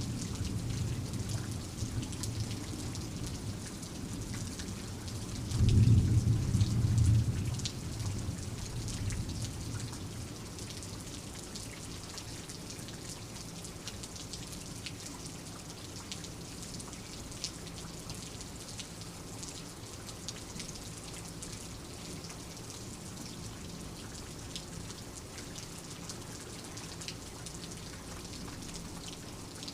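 Steady rain with distinct drops ticking, under low rumbles of thunder: one at the start and a louder roll about six seconds in that fades within a few seconds, leaving only the rain.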